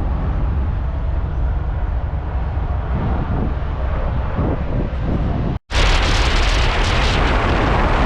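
Steady road and engine rumble of a pickup truck at highway speed. After a sudden cut about five and a half seconds in, a louder, brighter rush of wind and road noise.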